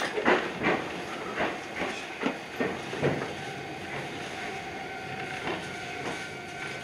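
Iyotetsu 3000 series electric train running, its wheels clacking unevenly over rail joints and points. About halfway through, the clacks thin out and a steady whine takes over.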